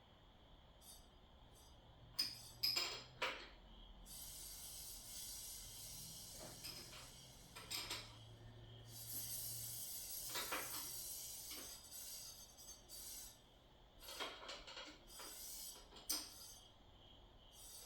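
Handling noise from unpacking: irregular light clicks and clinks with short stretches of rustling, like packaging and small parts being handled.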